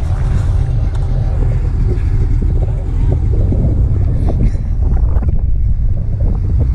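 Vehicle engine rumble, low and steady.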